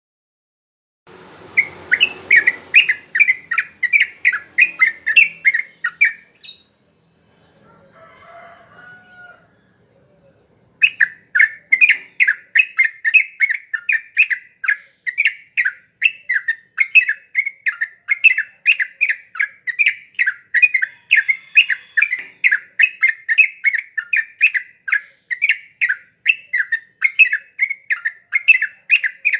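Yellow-vented bulbul (trucuk) singing a fast, loud series of repeated chattering notes, about three a second, with a break of a few seconds near the middle.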